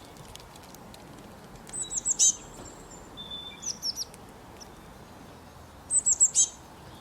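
Songbirds chirping: a quick run of very high, downward-sweeping notes about two seconds in and another near the end, with a few scattered chirps between, over a steady soft outdoor hiss.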